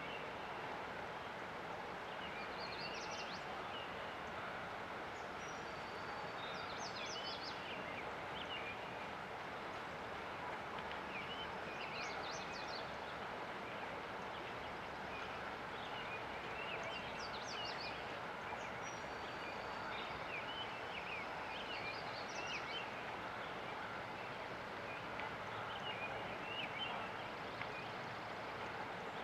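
Small birds chirping in quick clusters of high notes every few seconds, over the steady rush of river water.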